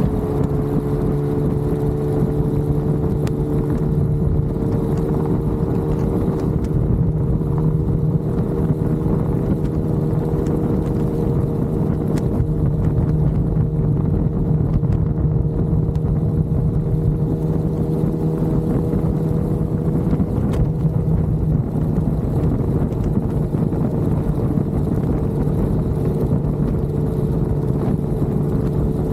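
Motorcycle engine running at a steady highway cruise, its drone creeping slightly higher in pitch, over heavy wind and road rumble.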